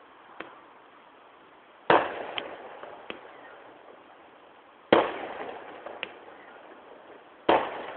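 Distant aerial firework shells bursting: three loud booms about three seconds apart, each followed by a rolling echo and a few smaller cracks, heard through a mobile phone's microphone.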